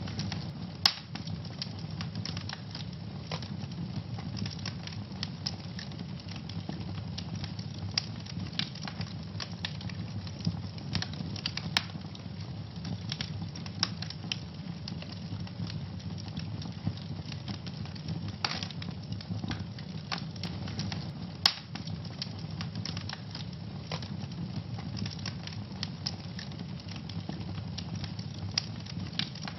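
Wood fire burning in a fireplace, crackling steadily with dense small snaps over a low rumble of flame, and a few louder pops, the sharpest about a second in and about two thirds of the way through.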